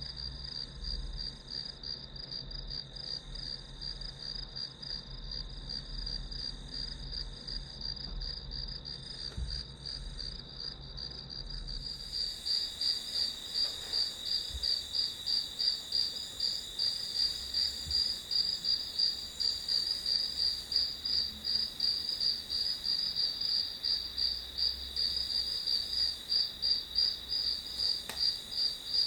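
Crickets chirping in a steady, high, pulsing trill. About twelve seconds in, the sound shifts: a low rumble drops out and the chirps become louder and more distinctly rhythmic.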